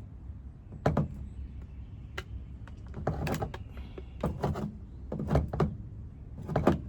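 Handling noise from fitting a new fuel hose into a small gas engine's fuel tank: irregular clicks, knocks and scrapes, roughly one every second.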